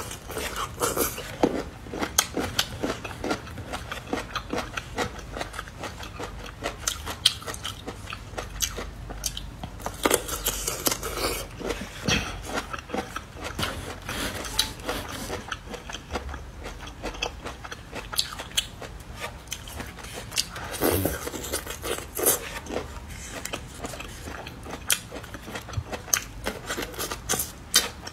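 Close-up biting and chewing of marinated hand-peeled bamboo shoots: repeated crisp crunches as the fibrous shoots are bitten through and chewed, with irregular clicks and snaps throughout.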